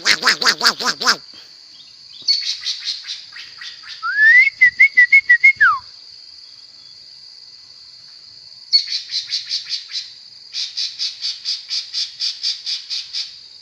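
A songbird singing in bursts of rapid, repeated chattering notes, with a louder run of clear whistled notes about four seconds in that ends in a falling slide. A steady high-pitched tone runs underneath throughout.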